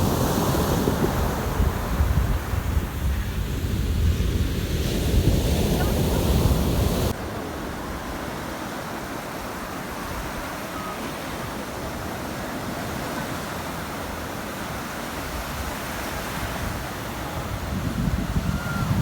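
Sea waves washing in, with wind buffeting the microphone heavily for about the first seven seconds; this cuts off abruptly, leaving a quieter, steady wash of surf.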